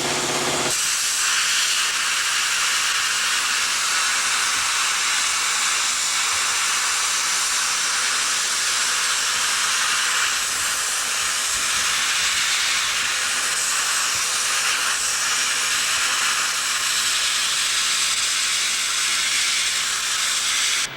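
A loud, steady hiss, high in pitch with no low rumble, that starts just under a second in and cuts off sharply near the end.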